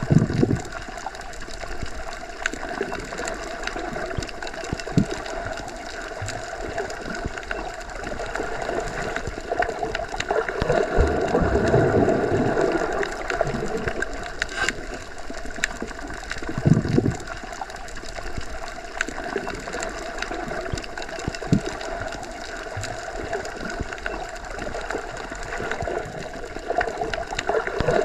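Underwater ambience, as heard submerged in a pool or lake: a steady muffled wash with scattered small clicks and a few deeper surges.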